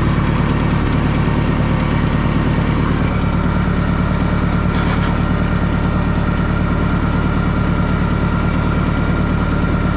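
International 2400B tractor's engine running steadily, with a couple of brief clicks about five seconds in.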